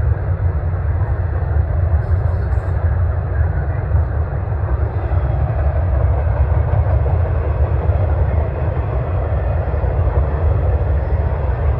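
Norfolk Southern intermodal freight train rolling past, a loud, steady rumble of the cars on the rails.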